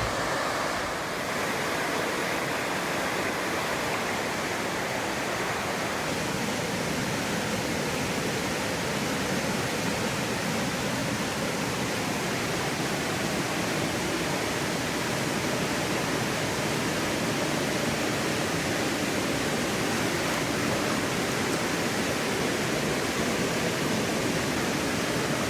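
Mountain creek water running over rocks, a steady rushing.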